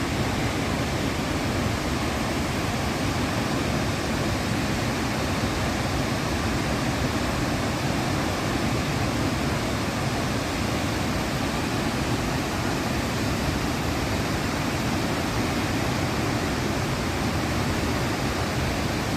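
Waterfall's steady rushing roar of falling water, unbroken and even throughout.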